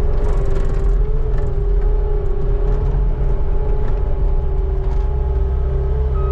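Skid steer's engine running steadily: a loud low drone with a steady whine over it.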